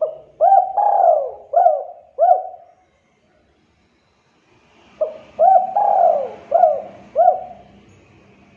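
Spotted dove calling: two cooing phrases a few seconds apart, each a run of five coos lasting about two and a half seconds, the third coo in each the longest.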